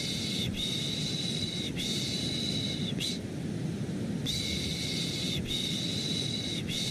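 Repeated 'shh' shushing sounds for soothing a baby to sleep, each about a second long, coming in groups of three with a short pause between groups. Under them runs steady, low-pitched white noise.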